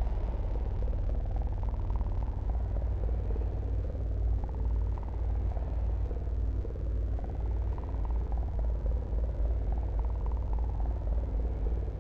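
A steady deep rumble, with a mid-pitched tone above it that swells and falls back every two to three seconds.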